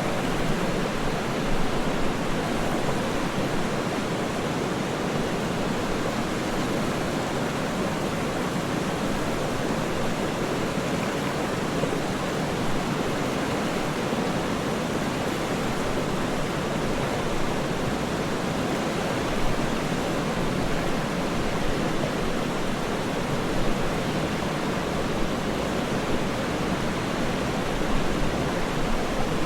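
Waterfall: a steady, even rush of falling water that holds constant throughout.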